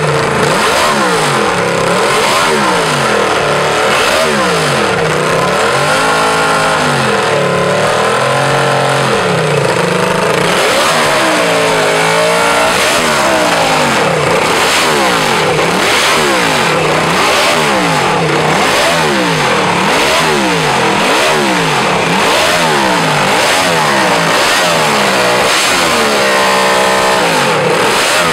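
Moto Guzzi 8 Cilindri's 500 cc V8 racing engine being revved without a break, its pitch climbing and falling about once a second as the throttle is blipped, with a few longer held revs.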